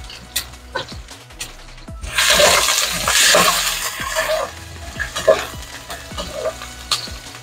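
Chopped onion, garlic and hot peppers sizzling in hot oil in an aluminium pot as a spoon stirs them, with sharp clicks of the spoon against the pot. The sizzle swells loud about two seconds in and eases off a couple of seconds later.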